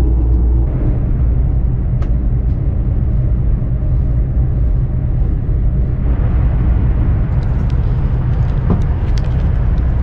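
Steady low rumble of a high-speed bullet train heard from inside the passenger cabin. About six seconds in the running noise gets louder and hissier, and a few light clicks come near the end.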